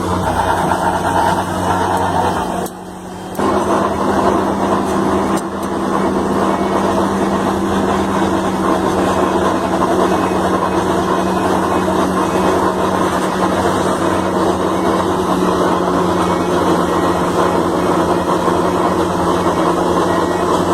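Engine of heavy road construction machinery running steadily with a constant hum. There is a short drop in level about three seconds in.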